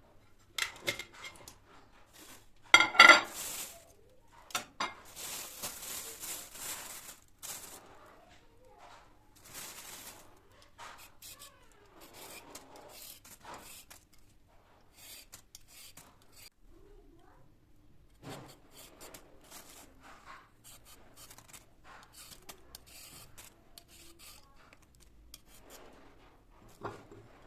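Kitchen handling sounds: items being rubbed, rustled and set down, with a sharp, ringing clatter about three seconds in and stretches of hissy rustling after it.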